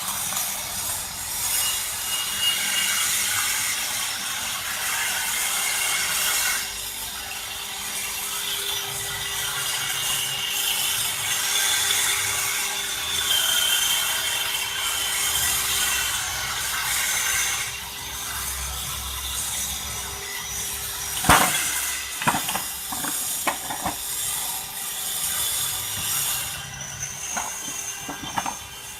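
CNC stone-carving machine at work, its spindle bit grinding into stone with a gritty high hiss over a faint steady hum. A few sharp knocks come about two-thirds of the way through.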